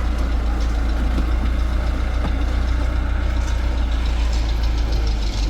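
Heavy engine of the concrete-pouring machinery running steadily with a deep, even drone, with a brief dip near the end.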